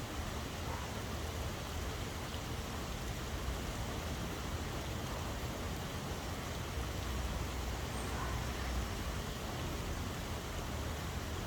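Steady rain falling, an even hiss, with a low rumble underneath that swells slightly a little past the middle.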